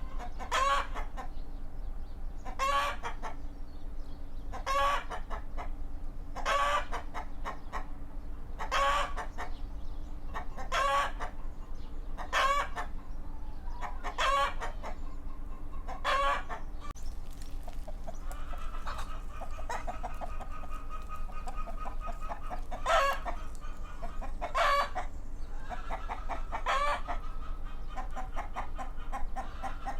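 Chickens calling: short, pitched clucking calls repeat about every two seconds. In the second half they come less often, mixed with longer drawn-out calls, over a faint steady low hum.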